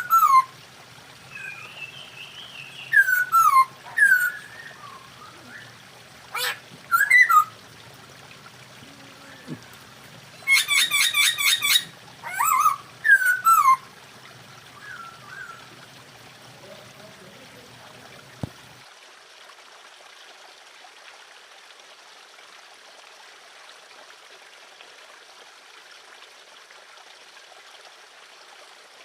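Masked laughingthrushes calling: loud, downward-sliding whistled notes and, about ten seconds in, a fast rattling trill. The calls stop after about fourteen seconds, leaving only a steady hiss.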